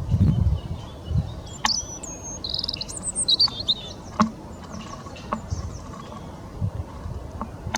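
Small birds chirping: short, high twittering notes and trills, busiest in the first half, over a low, uneven rumble. No harsh crow caws stand out.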